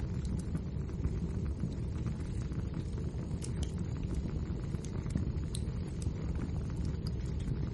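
Wood fire burning with a steady low rumble and scattered small crackles and pops.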